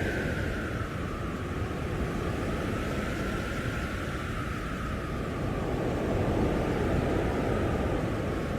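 Blizzard wind blowing hard in a steady rush, with a howling whistle that sinks slowly in pitch over the first couple of seconds.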